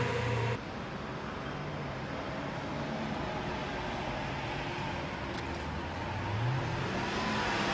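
Lamborghini Aventador's V12 engine running as the car moves at low speed, then revving up near the end, its pitch rising as the car pulls away.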